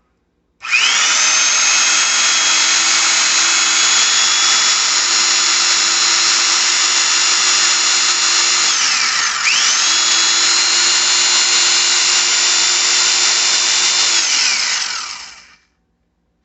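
Black & Decker 7515 jigsaw's electric motor running with a steady high whine, freshly cleaned and re-lubricated and running smoothly. About nine seconds in the pitch dips briefly as the trigger is let off and caught again, and near the end it winds down and stops.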